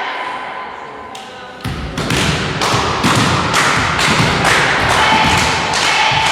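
A fast, fairly even series of thumps, about three a second, starting about one and a half seconds in.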